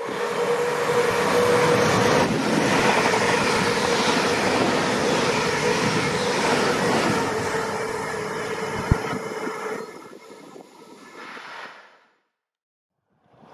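A train passing on the main line: a steady rush of wheels on rail with a steady tone running through it. The sound dies away about ten seconds in, with a single sharp click near nine seconds.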